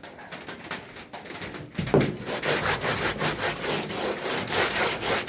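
Hand sanding of a truck toolbox with worn, well-used sandpaper: quick back-and-forth scraping strokes, about three or four a second, getting louder from about two seconds in.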